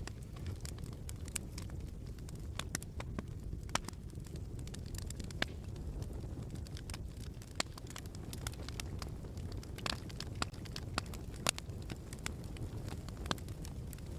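Wood fire crackling in a fireplace: a steady low rumble with irregular sharp pops and snaps.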